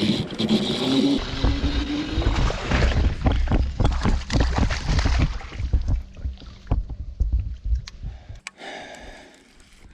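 Paddling a kayak: water splashing and knocking against the hull, with a low rumble, loud for about six seconds and then quieter, with scattered clicks.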